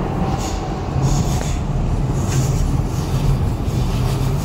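Docklands Light Railway train running, heard from inside the carriage: a steady low rumble of wheels on rail with a low hum that comes in about a second in, and a few brief high hisses in the first half.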